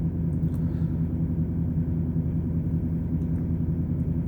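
Steady low drone inside a diesel semi-truck's cab, its engine running with a constant low hum.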